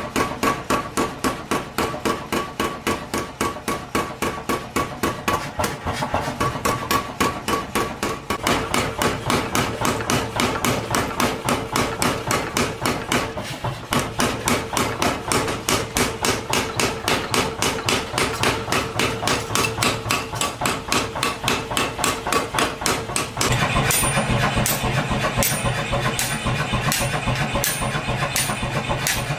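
Rapid, regular hammer blows on steel, about three strikes a second, with a ringing note after each, as in forging a knife blank. Near the end a steady machine hum joins and the blows get louder.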